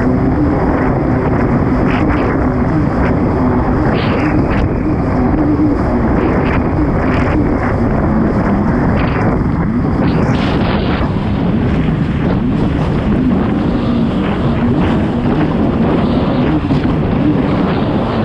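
Kawasaki STX 160 personal watercraft's four-stroke engine running hard at race speed, its pitch wavering up and down, under steady wind noise on the microphone, with short sharp slaps of water and spray every few seconds.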